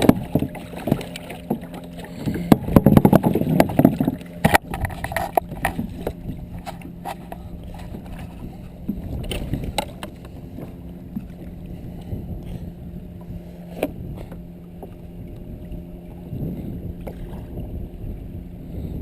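Handling noise aboard a fishing kayak on the water: scattered knocks and clatters against the hull, busiest in the first few seconds, over a steady low hum and some water and wind noise.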